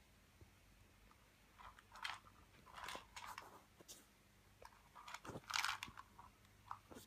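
A cat chewing a crunchy treat: faint, irregular crunches in small clusters, loudest about two-thirds of the way through.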